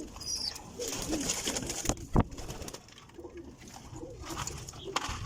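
Domestic pigeons cooing, low repeated notes, with a single sharp knock about two seconds in.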